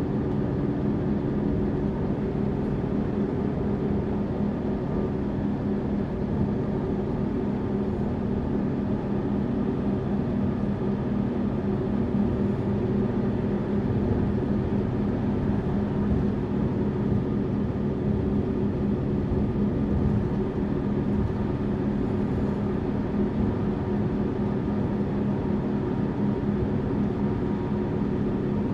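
Tourist bus engine running steadily, a low drone of steady tones over a constant haze of noise.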